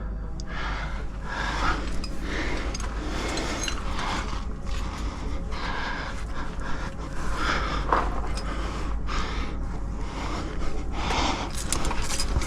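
A climber breathing hard and panting in rhythm while working up the rock, with a few sharp clicks near the end.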